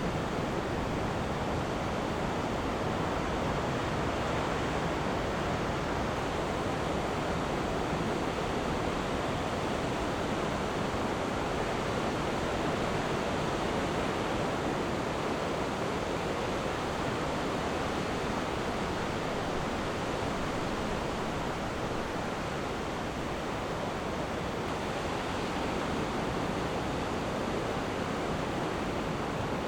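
Ocean surf washing onto a beach: a steady, even rush of waves with little rise and fall.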